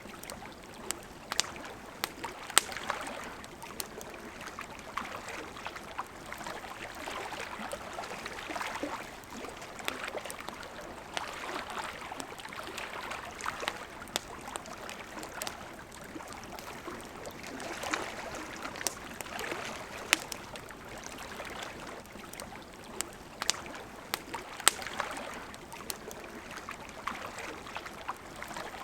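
Wood fire crackling with scattered sharp pops, over the steady rushing of a river.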